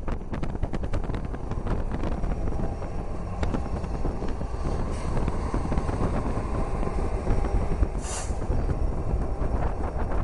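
Diesel freight locomotives passing close by: a steady heavy rumble with rapid clicking, and a brief hiss about eight seconds in.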